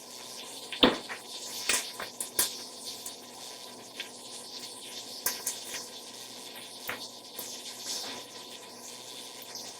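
Butter and olive oil sizzling faintly in a hot pot, with a few sharp clicks and scrapes over it, the loudest about a second in.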